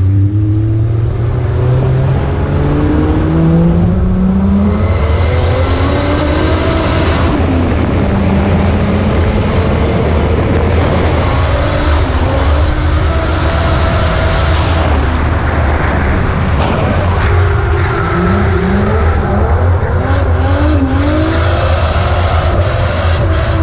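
Car engine driven hard, revs climbing over the first few seconds and then rising and falling again and again, with road and wind noise over it.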